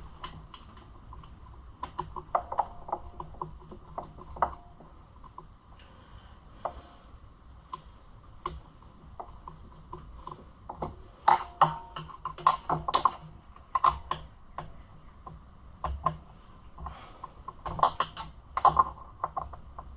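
Light metal clicks and clinks of a screwdriver and small parts being worked on a dirt bike's carburetor, in irregular runs that grow busier about halfway through and again near the end.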